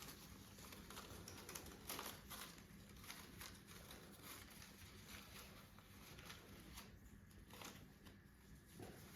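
Faint rustling and crinkling of paper strips being handled and woven into a paper Christmas heart basket, with small scattered clicks.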